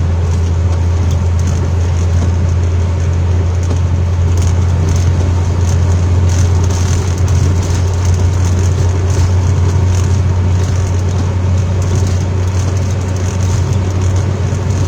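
Steady road and engine noise inside a moving car's cabin: a constant low drone with a faint hiss above it.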